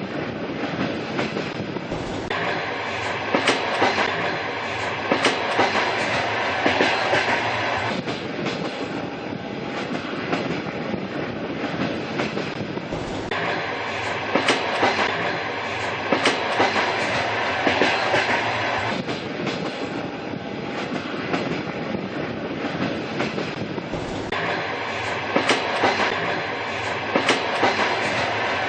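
A train running on jointed track: a steady rumble with repeated clickety-clack clicks of the wheels passing over rail joints.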